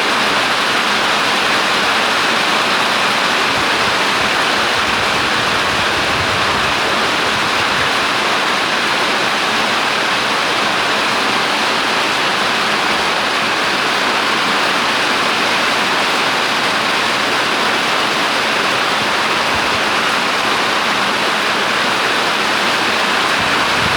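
Rain falling steadily, a dense, even hiss that doesn't let up.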